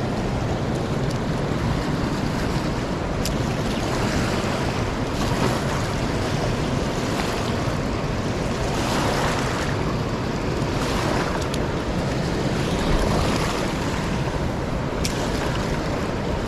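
Steady, loud rush of a fast-flowing, swollen river, with wind buffeting the microphone.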